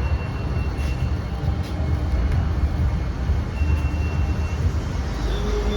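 Motorcycle ride on the highway: steady road and traffic noise with a heavy low rumble.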